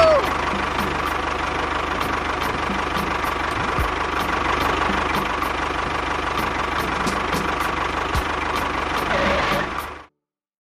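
Tractor engine idling steadily with a low, even knock, cutting off suddenly near the end.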